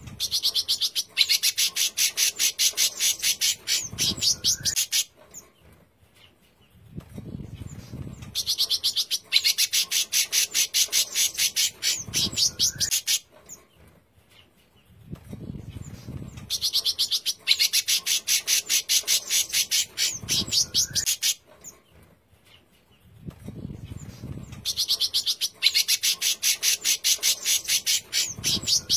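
Songbird singing a harsh, rapid trilling 'besetan' phrase, a dense run of very fast high notes about four seconds long, repeated about every eight seconds as in a looped masteran recording for training cage birds. A softer, lower sound comes just before each run.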